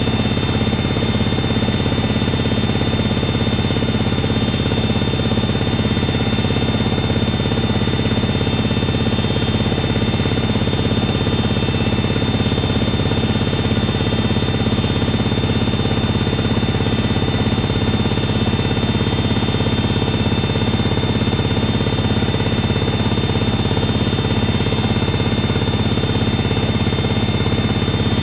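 Privileg 370 S washing machine running steadily, its motor and drum turning at a constant speed with an even hum and a few steady whining tones.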